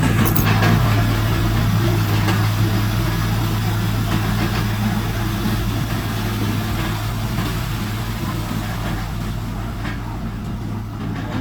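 Heavy diesel engine running steadily with an even low drone, slowly getting a little quieter.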